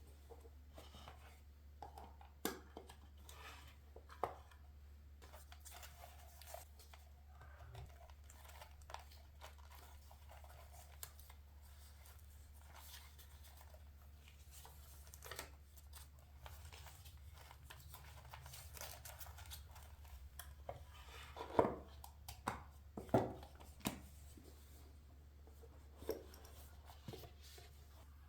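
Scissors snipping through paper amid soft rustling as the paper is handled, with a run of sharper, louder snips a little past twenty seconds in.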